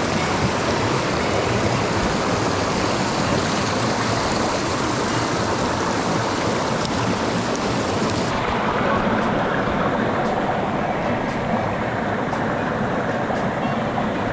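Mountain stream rushing over rocks: a steady, loud wash of water. About eight seconds in the sound turns suddenly duller, losing its hiss.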